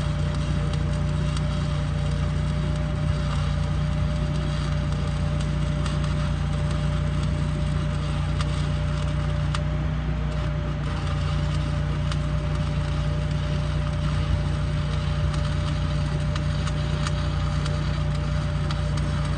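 Stick-welding arc crackling and sputtering steadily as a 7018 electrode burns, with scattered sharp pops, over a steady electrical hum.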